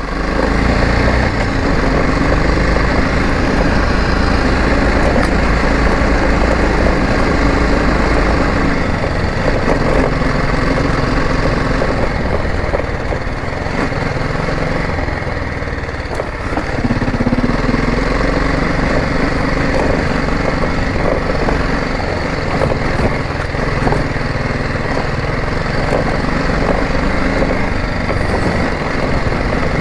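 Motorcycle engine running while the bike is ridden, its note shifting with the throttle a few times and easing briefly about halfway through before picking up again.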